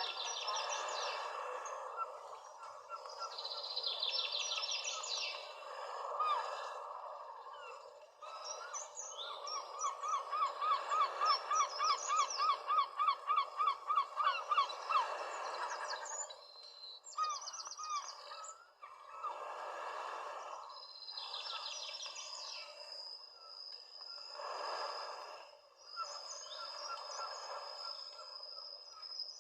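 Several wild birds singing and calling over a steady background hiss. In the middle one bird repeats a rising note about four times a second for several seconds, and near the end a high thin whistle is held.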